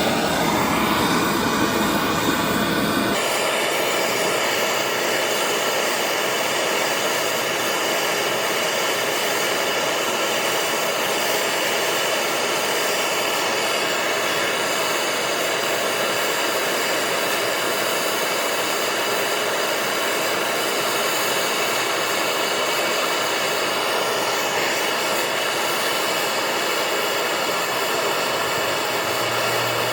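A heating tool blows steadily to warm seized Whitworth nuts on an old engine's vaporiser so that they can be freed. Its low rumble drops away about three seconds in.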